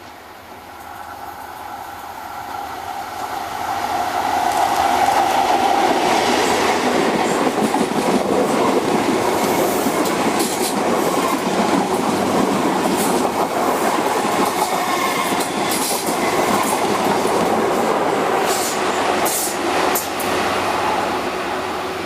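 Diesel-hauled train approaching and running past, growing louder over the first few seconds and then holding loud, with the wheels clicking over rail joints through the second half.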